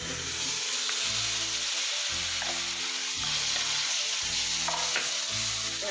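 Ground onion, tomato, garlic and green chilli paste sizzling loudly as it goes into hot oil and spices in a frying pan, starting at once and continuing as it is stirred with a spatula.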